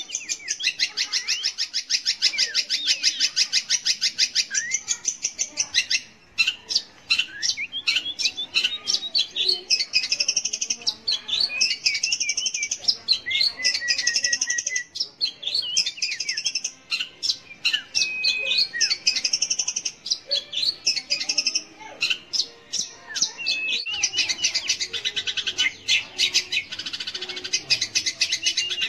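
Long-tailed shrike (cendet) singing. Fast, scratchy, chattering runs of rapidly repeated high notes open and close the stretch, and a middle section of varied, separate phrases with gliding notes runs between them.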